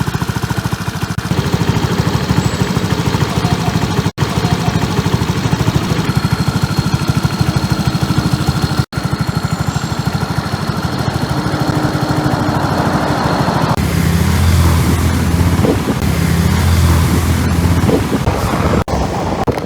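Suzuki Skydrive 125 scooter's single-cylinder four-stroke engine running while riding, with wind rush on the microphone. It gets louder from about two-thirds of the way in.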